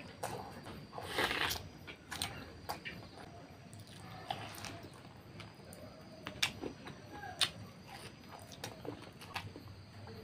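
Close-miked eating sounds: chewing soft, fatty pork and rice, with wet mouth smacking and sharp lip and tongue clicks. A louder wet burst comes about a second in, then scattered clicks.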